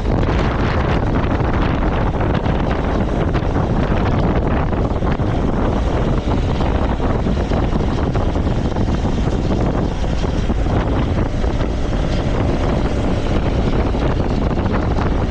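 Steady, loud wind rush buffeting the microphone of a moving motorcycle, with the running of the bike mixed into it.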